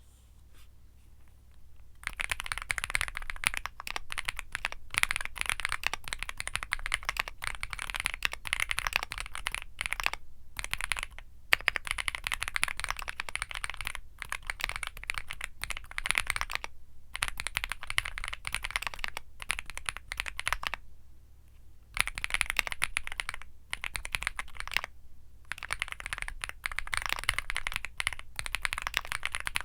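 Fast typing on a Womier SK75 mechanical keyboard with Womier Mint Blizzard switches: a dense stream of key clacks that starts about two seconds in and breaks off in several short pauses.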